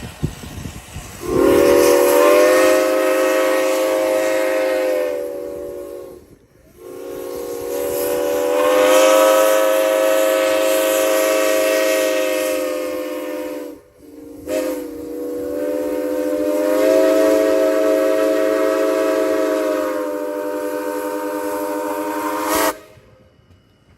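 Steam whistle of Monson Railroad No. 3, a two-foot-gauge steam locomotive, sounding three long blasts of several tones at once, each lasting about six to eight seconds with brief gaps between. The last blast cuts off sharply near the end.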